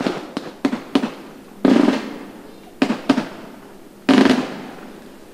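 Fireworks going off: a few sharp cracks, then two louder, longer bangs about a second and a half apart in the middle and near the end, each dying away in an echo.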